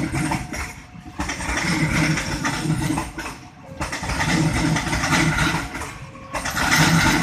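Motorcycle and car engines passing one after another, the sound swelling and fading every two to three seconds as each vehicle goes by.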